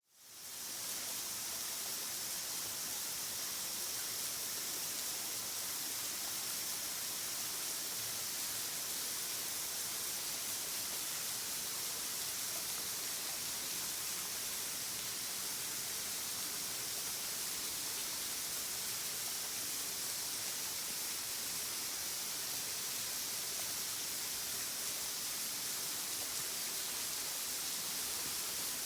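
Waterfall rushing as a steady, hissy wash of falling water, fading in over the first second.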